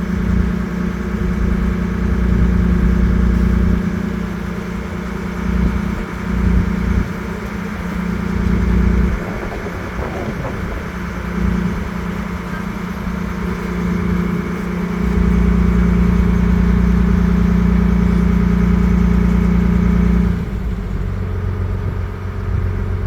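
Boat engine running at a steady hum, with irregular low rumbling from wind on the microphone. About 20 seconds in, the engine note drops and gets quieter.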